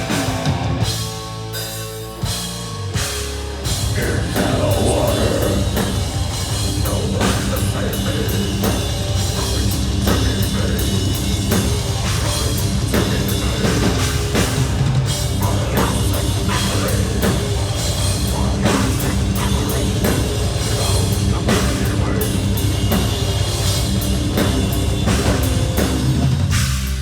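A death-doom metal band playing live: distorted guitars, bass and drum kit. A thinner, quieter passage opens it, and the full band comes in heavily about three and a half seconds in, with rapid drumming.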